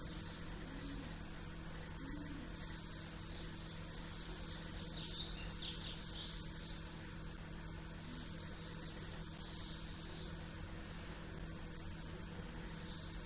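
Small birds chirping in the early morning: scattered short high calls, busiest about five seconds in, with a few short low calls beneath, over a steady faint hum.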